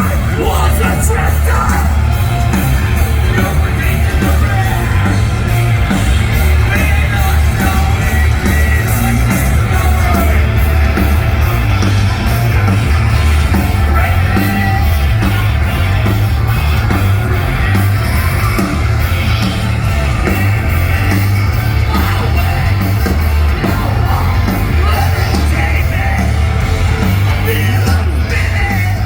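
Southern metal band playing live through a loud festival PA: distorted guitars, heavy bass and drums, with a yelled vocal.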